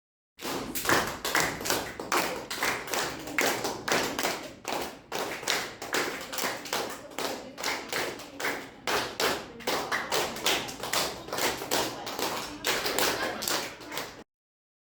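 A quick, steady series of sharp taps and claps, about three a second, that starts and cuts off abruptly.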